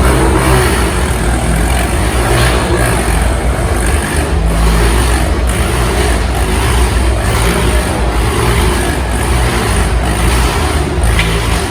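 Several small motorcycle engines running continuously inside a steel globe-of-death cage, revving as the riders circle, with the pitch rising and falling from moment to moment.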